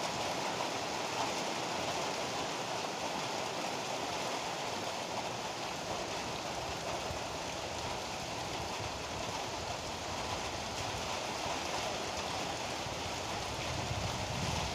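Steady heavy rain pouring down, an even hiss without a break; a low rumble begins to build near the end.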